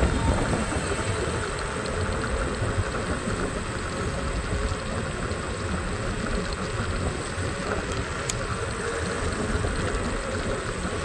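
Steady road-traffic and scooter engine noise heard from a moving scooter, with a low rumble throughout and one short click about eight seconds in.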